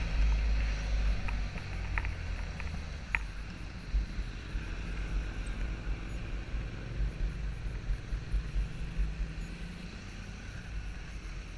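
Small open boat under way, its outboard motor running steadily under heavy wind buffeting on the microphone, with a few light knocks in the first few seconds.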